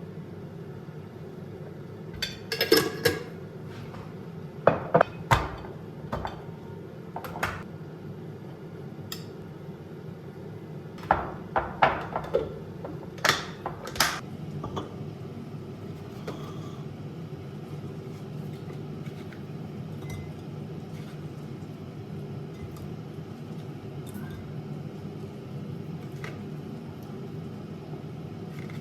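Dishes and cutlery clinking and knocking in several quick clusters during the first half, over a steady low hum.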